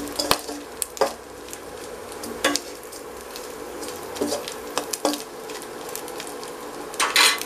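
Dried anchovies sizzling in oil in a stainless steel kadai while a steel spatula stirs them, with scattered clinks of metal on metal and a louder scrape near the end. The fish are being fried until crisp.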